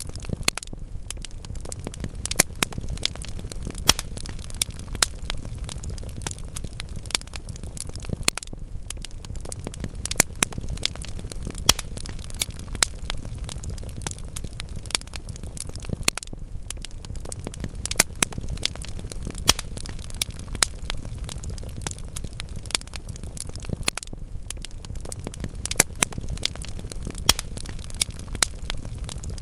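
Wood fire burning in a fireplace: a steady low rumble of flame with irregular crackles and sharp pops from the burning logs, several a second.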